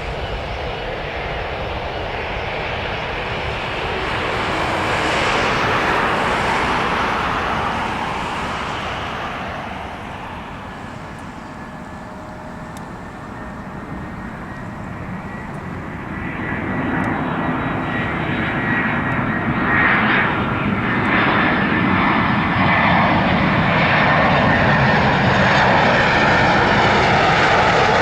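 Jet airliner engines: a rushing roar swells and fades over the first several seconds, then builds again with a high whine and stays loud through the second half.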